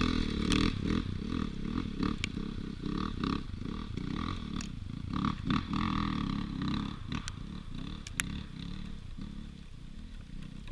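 Dirt bike engine revving hard and unevenly under load as it climbs a steep hill, the revs rising and falling over and over. It grows fainter toward the end.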